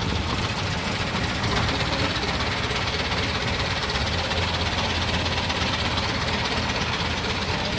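Longtail boat engine running steadily.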